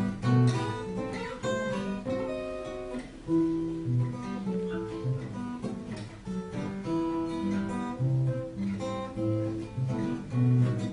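Acoustic guitar playing an instrumental interlude of the song, plucked notes over a bass line.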